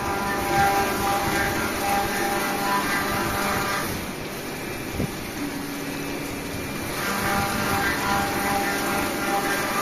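A machine running steadily with a hum of several held tones. It eases off for a few seconds in the middle, with a single sharp click about five seconds in.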